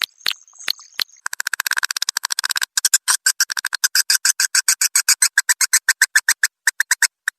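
Recorded swiftlet lure call: dry clicks, the echolocation clicking of swiftlets. A few spaced clicks give way about a second in to a very fast rattle of clicks, then to a steady train of about eight clicks a second.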